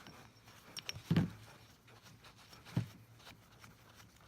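A few light clicks, then two dull thumps about a second and a half apart: parts of a semi-hermetic compressor being handled and set down during dismantling.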